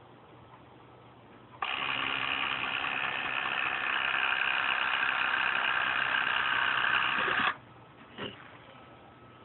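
Electric actuator motor in a 2006 Lexus GS430 starts abruptly and runs steadily for about six seconds, a little louder after the first two seconds, then cuts off suddenly. A faint tick follows. This is the actuator noise the car is being checked for.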